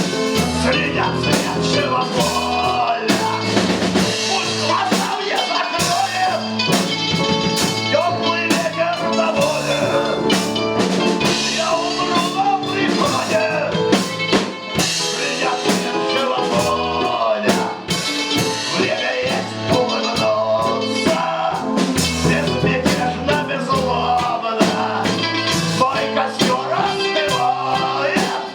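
A live rock-blues band playing a song, with drum kit and bass under a wavering lead melody that is likely sung.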